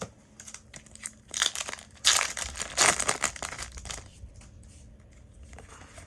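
Foil Yu-Gi-Oh booster pack wrapper crinkling and tearing in irregular crackly bursts, loudest between about two and three seconds in.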